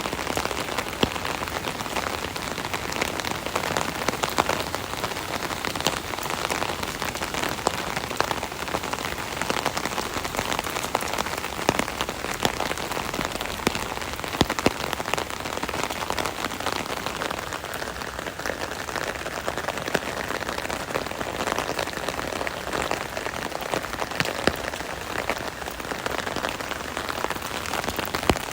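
Steady rain heard from under an umbrella, drops pattering on the umbrella's canopy, with frequent sharper individual drop hits.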